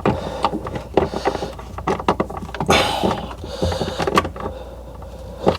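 Hands working on a refrigerator's interior parts: scattered small clicks and knocks of plastic and metal parts and a screwdriver being handled, with a short scrape about three seconds in, over a steady low hum.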